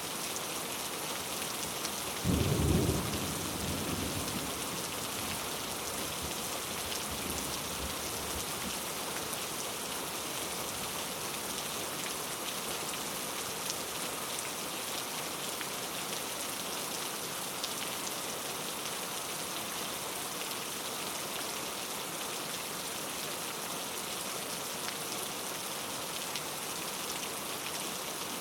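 Steady heavy rain hissing, with one clap of thunder about two seconds in that rumbles off over the next few seconds.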